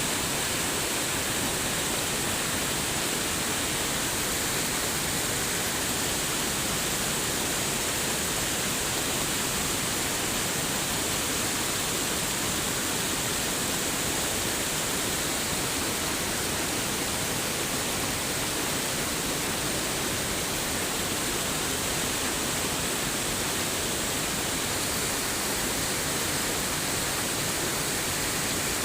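Flowing water making a steady, unbroken rushing hiss, like a stream or small waterfall.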